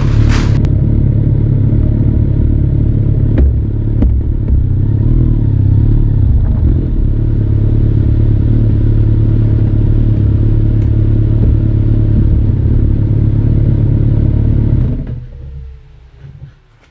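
Kawasaki ZRX1200 DAEG's inline-four engine through a Nojima aftermarket exhaust: a rev dies away in the first half second, then the engine idles steadily. About fifteen seconds in, the sound falls away quickly.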